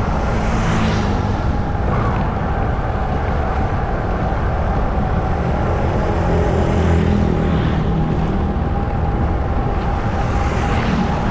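Motorcycle engine running steadily while riding through street traffic, with other vehicles passing by a few times.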